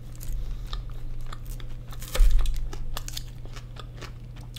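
Close-up chewing of a mouthful of loaded fries with chicken, cheese and green onions: wet mouth clicks and soft crunching, with one louder crunch a little past two seconds in.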